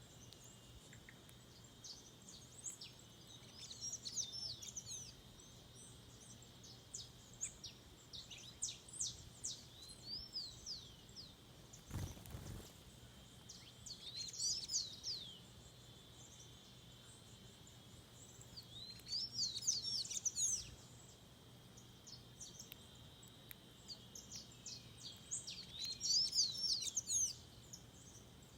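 A songbird singing phrases of quick, sweeping high chirps, about five phrases each a second or two long and spaced five to six seconds apart, over a faint steady high buzz. One dull thump comes about twelve seconds in.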